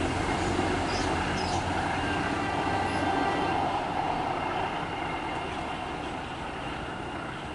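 Train running past at speed: a steady rumble of wheels and carriages, with brief high wheel squeals about a second in, easing off near the end.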